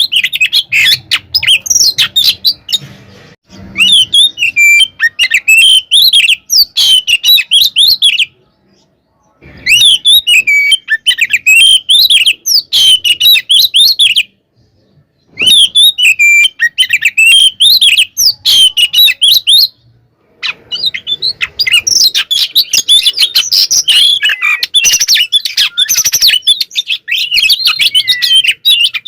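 Oriental magpie-robin (kacer) singing loudly in its fighting-mood song: long runs of fast, varied whistles and chirps, broken by short pauses about 8, 14 and 20 seconds in.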